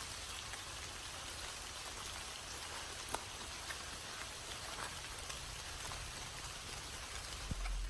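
Steady rain falling, with a few separate drops ticking now and then.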